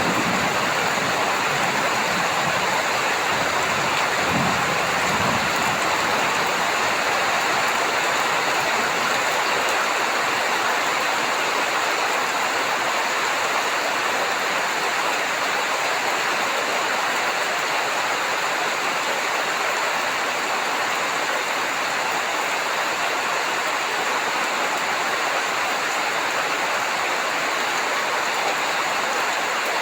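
Heavy rain falling steadily, with a brief low rumble of thunder about four seconds in.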